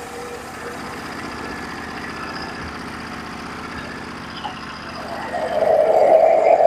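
Norwood HD36v2 portable band sawmill's engine running steadily, growing louder about five seconds in.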